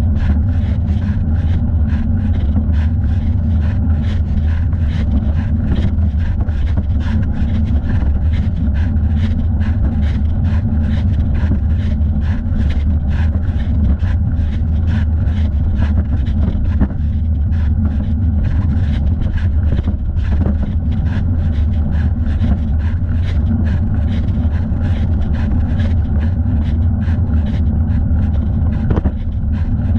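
Steady low rumble of wind and rolling noise on the microphone of a camera mounted on a cyclist's thigh, with a regular ticking about two to three times a second.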